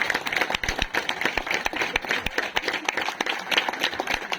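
A group of people applauding, with many hands clapping in a dense, irregular patter.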